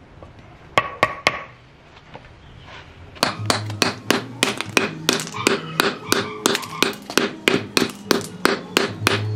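Hammer blows on wood: three strikes about a second in, then from about three seconds in a fast, even run of blows, about three to four a second.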